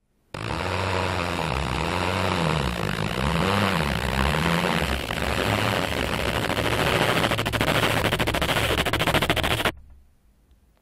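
Squeaky rubber slat being worked, giving low squeaks and creaks that swoop up and down in pitch, then breaking into a fast run of ticks before cutting off suddenly near the end.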